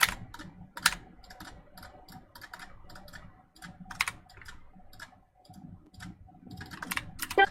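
Typing on a keyboard: irregular key clicks, several a second, with a few louder strikes near the end.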